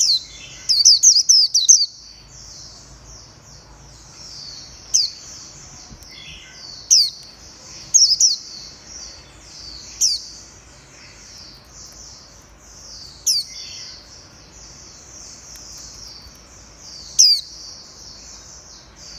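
White-eye (vành khuyên) singing: a continuous high, twittering warble, broken every few seconds by loud, sharp notes that sweep downward, with a quick run of them near the start.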